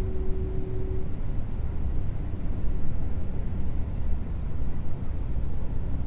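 The end of a foghorn blast, one steady low tone that stops about a second in, over a loud, steady low rumble that carries on alone afterwards.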